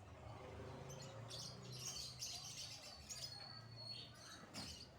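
Birds chirping, with one held high whistle a little past the middle, over a faint steady low hum.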